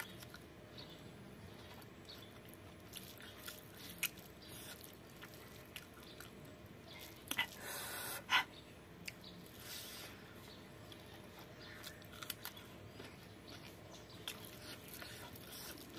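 Close-up mouth sounds of a person chewing food eaten by hand: soft wet chewing with scattered small clicks and lip smacks, and a louder pair of clicks about halfway through.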